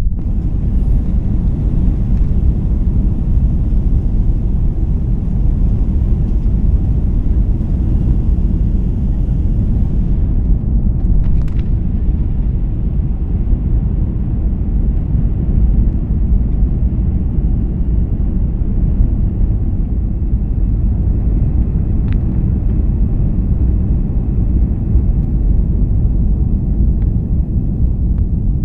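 Airbus A330 cabin noise during takeoff: the engines at high thrust give a loud, steady low rumble. The hiss above the rumble fades about ten seconds in, and a faint steady high tone is heard later, with a couple of faint clicks.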